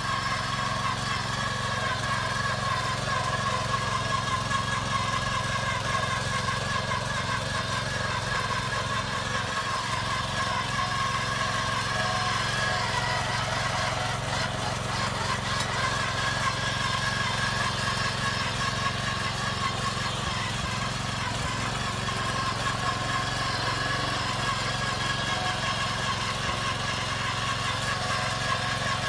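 Small farm-machine engine running steadily at a constant speed, with no change in pitch or loudness.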